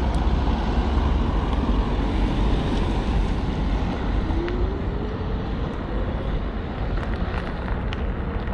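Riding noise from a KuKirin G2 electric scooter: wind rushing over the microphone over a steady deep tyre and road rumble. A faint whine rises in pitch over the second half.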